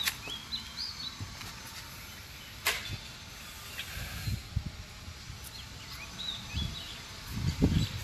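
Quiet open-air ambience with a small bird chirping a few short, quick notes just after the start and again about six seconds in. There are a couple of sharp clicks and some low rumbling bumps on the microphone, loudest near the end.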